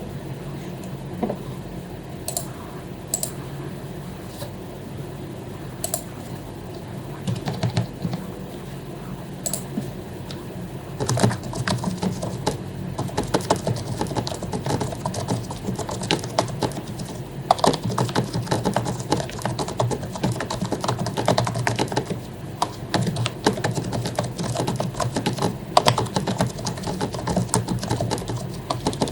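Typing on an HP membrane keyboard whose keycaps have been lubed: a few scattered clicks for the first ten seconds or so, then fast, continuous keystrokes from about eleven seconds in, over a low steady hum.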